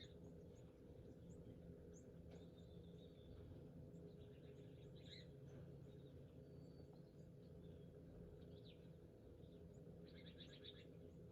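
Faint small birds chirping and calling, short high notes scattered throughout, with a quick rattling run of repeated notes near the end, over a steady low hum.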